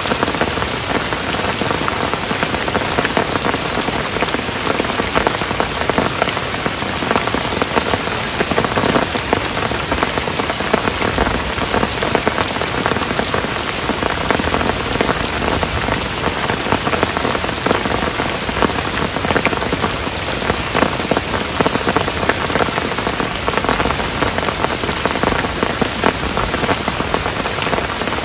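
Heavy rain pouring steadily onto forest foliage and wet ground, a constant loud hiss made of countless drop patters.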